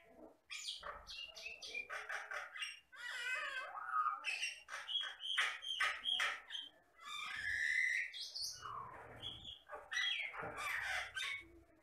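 Jalak Batam (common myna) singing in a dense, varied run of whistles, chatters and harsh squawks, with a drawn-out whistle a little before the end.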